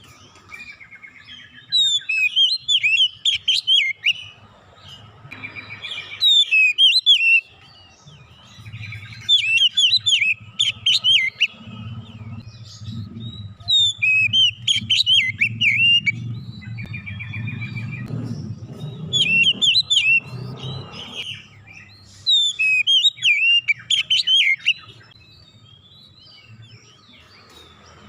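Oriental magpie-robin singing: a bird repeating bursts of rapid, varied whistles and chirps, each about two seconds long, with short pauses between. A low hum runs underneath through the middle stretch.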